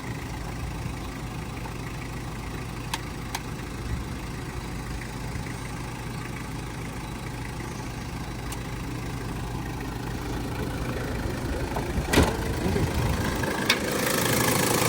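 1998 Toyota Hilux Surf's 3.0-litre turbo diesel engine idling steadily, with a few sharp clicks.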